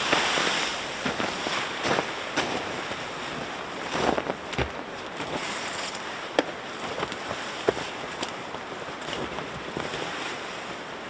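A camping tarp being taken down: the fabric rustling and flapping, with scattered clicks and knocks from its fittings, loudest right at the start.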